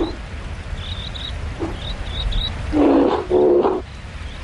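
Brown bear (grizzly) growling twice in quick, harsh bursts about three seconds in, the sound of a tense, stressed bear in a standoff. Short, faint bird chirps come and go.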